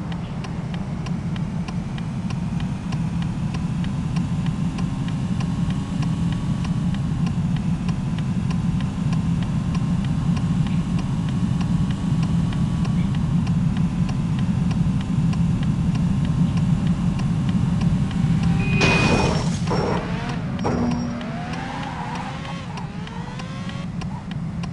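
Steady low rumble of a road vehicle running, with faint regular ticking over it. About nineteen seconds in, a brief cluster of sharp sounds and short sliding tones.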